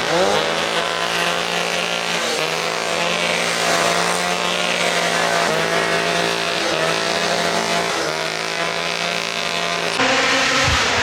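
Rally car engine pulling hard through the gears: its pitch climbs, then drops at each of several upshifts. The sound changes abruptly about ten seconds in.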